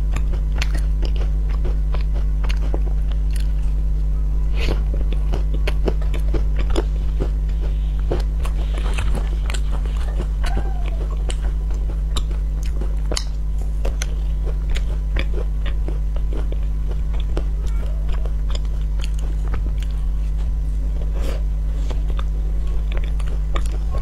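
Close-miked biting and chewing of an ice cream bar coated in crunchy cookie crumbs: many sharp, irregular crunches and crackles, over a steady low hum.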